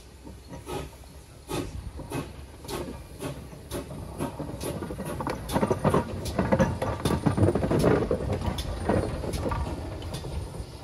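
Train on the move: a regular clatter of knocks, about one every half second at first, coming quicker and growing louder through the middle before easing off near the end.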